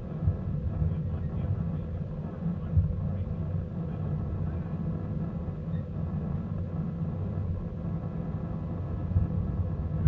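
Small-gauge train rolling along the track: a steady low rumble of wheels on rail, with a couple of sharp knocks.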